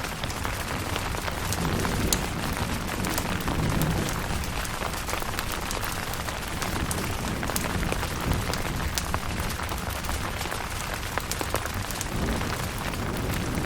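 Steady rain falling on a tent, with many sharp drop ticks over the patter. A low rumble swells a couple of seconds in and again near the end.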